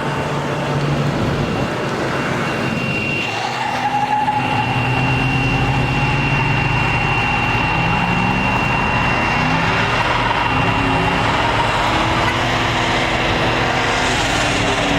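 Car driving, with engine and road noise heard from inside the cabin; the sound is steady and gets a little louder about four seconds in.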